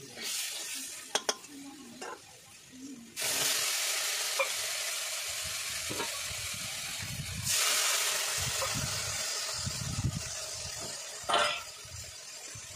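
A metal spatula scraping and clicking in a steel kadai. About three seconds in a loud sizzle starts suddenly as a new ingredient goes into the hot pan, and the curry masala keeps frying with a steady hiss that grows louder about halfway through. There is a short knock near the end.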